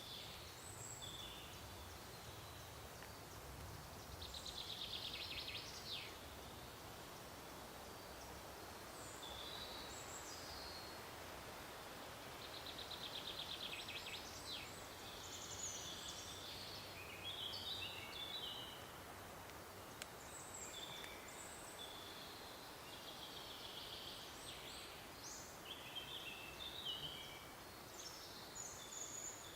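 Several small songbirds singing in forest, short varied phrases coming one after another, over a faint steady background hiss.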